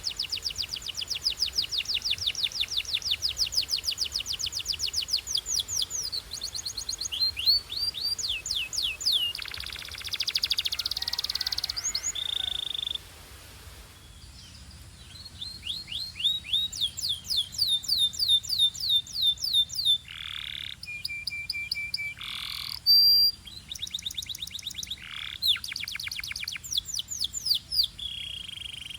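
Belgian canary singing: long runs of rapid, evenly repeated high trilled notes. A buzzier passage comes about ten seconds in, then a short pause. The trills resume, with a few held whistles later on.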